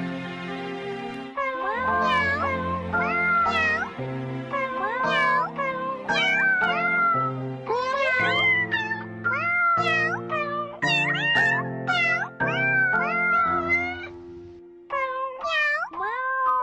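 A tune sung in cat meows: a quick, rhythmic run of meows set to a melody over held chords. It starts about a second and a half in and pauses briefly near the end.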